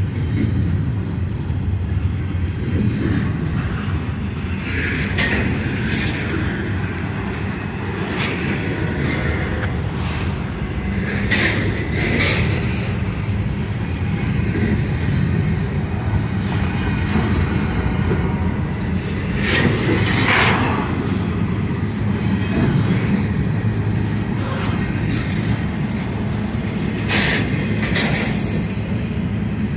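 Freight train's double-stack container cars and empty well cars rolling past, a steady low rumble of wheels on rail. Four times it is joined by a brief brighter, high-pitched burst of wheel noise.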